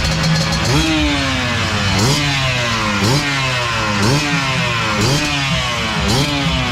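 Motorcycle engine being revved in quick blips, about once a second, each rev rising sharply and sliding back down.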